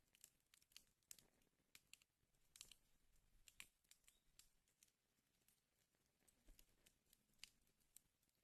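Faint wood fire in a fireplace crackling, with irregular small pops and snaps, several a second. There is a denser cluster of snaps about a third of the way in.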